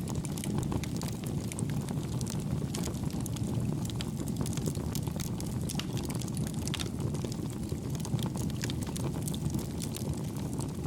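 Wood campfire burning: a steady low rumble of the flames with frequent small, light crackles and pops scattered throughout.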